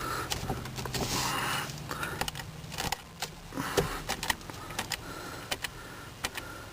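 Car keys jangling and clicking, with scattered small irregular clicks, as the key is handled at the ignition.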